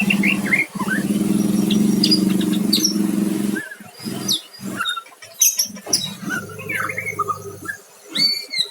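White-rumped shama singing: a run of quick whistled notes and chirps that sweep up and down. Underneath, a steady motor hum cuts off about three and a half seconds in and comes back more faintly for a while later.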